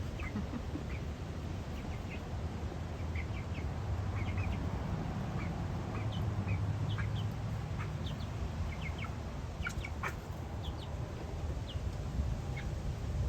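Chickens making short, scattered clucks and peeps over a steady low background noise.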